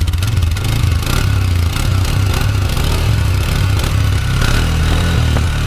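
Polaris Sportsman 400 ATV's single-cylinder four-stroke engine held at a little throttle above idle, a steady, even exhaust note through its old muffler.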